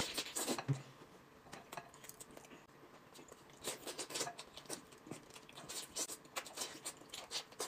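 Faint, scattered chewing and biting sounds of braised chicken drumsticks being eaten, a run of small clicks and smacks that comes and goes, busiest in the second half.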